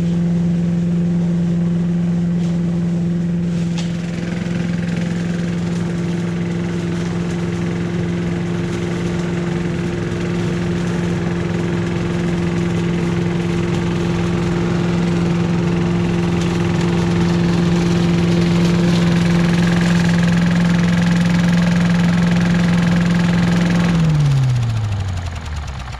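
Billy Goat Estate walk-behind leaf vacuum's small engine running at a steady speed while vacuuming leaves. Near the end it is shut off, and its hum falls in pitch as it winds down.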